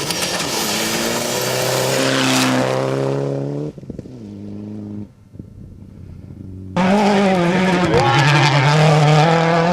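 Race car engines at full throttle, the pitch climbing and dropping back as gears change. About four seconds in the sound falls away suddenly to a fainter, lower engine note, and near seven seconds a loud engine cuts back in at high revs.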